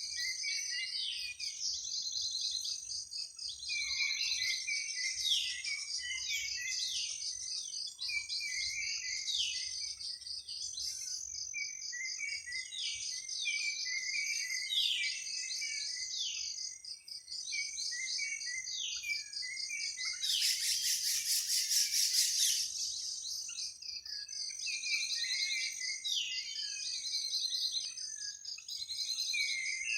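Forest night chorus: a steady high-pitched insect drone under repeated short, descending bird chirps. About two-thirds of the way in, a loud rasping buzz lasts about two and a half seconds.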